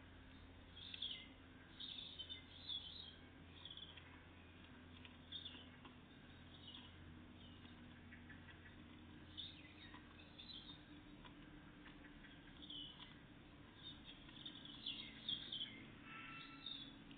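Faint, short chirping calls of great tits and blue tits, scattered irregularly and a little busier near the end, over a steady low hum.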